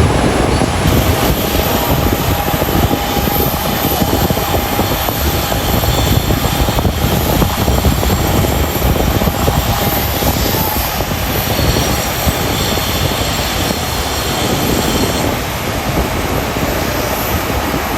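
Boeing 737-8 jet airliner engines running loud and steady: a dense rumbling roar with a faint whine over it.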